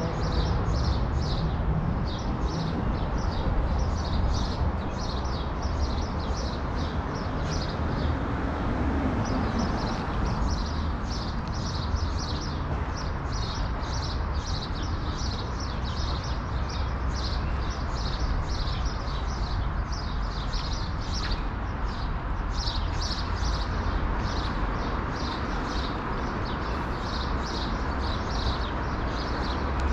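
Small birds chirping in rapid, repeated short notes in the trees, with a brief pause about nine seconds in, over a steady low rumble of city street traffic.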